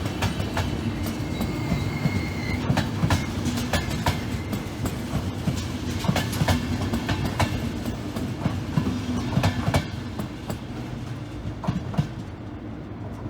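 Train rolling through a station: a steady low rumble with the wheels knocking repeatedly over rail joints and points, and a brief thin wheel squeal about a second in. The sound eases off near the end.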